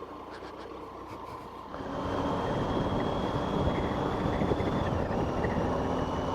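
Motorcycle on the move: engine running under wind and road noise, which get louder about two seconds in. A high whine in the engine note steps down in pitch about five seconds in.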